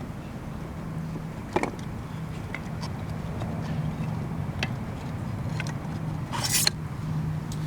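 Wood campfire crackling: scattered sharp pops of burning wood, with a brief cluster of crackles about six and a half seconds in, over a steady low rumble.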